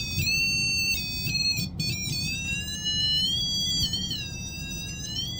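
High-pitched electronic tone from a ghost-hunting sensor device, held continuously while slowly wavering up and down in pitch; a little annoying.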